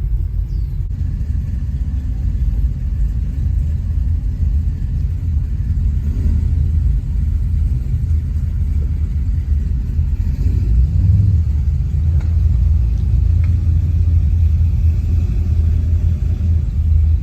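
Steady low rumble of a 2020 Dodge Challenger Scat Pack Widebody's 6.4-litre HEMI V8, running at low revs without revving.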